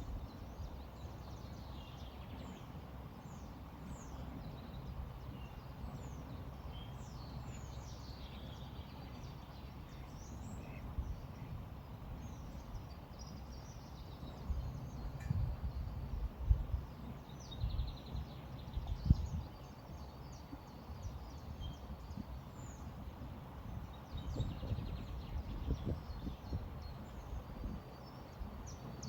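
Small birds chirping and calling, many short high notes and quick falling calls, over a steady low rush of a river. Louder low rumbles come in gusts about halfway through and again near the end.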